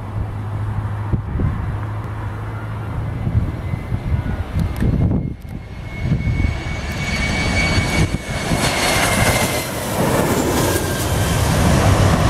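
Jet airliner's engines, a distant rumble that grows louder with a high whine and rushing noise over the second half as the aircraft comes closer. Wind buffets the microphone.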